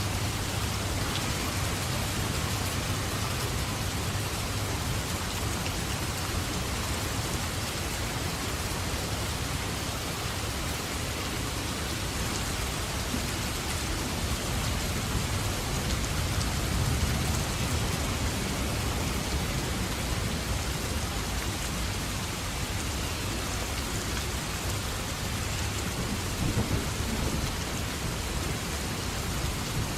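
Steady heavy rain falling in a forest, with low thunder rumbling underneath that swells briefly around the middle and again near the end.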